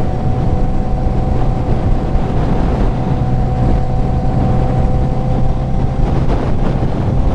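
Kawasaki Z900's inline-four engine with a full aftermarket exhaust running at a steady cruise, a constant drone, with wind buffeting the helmet microphone.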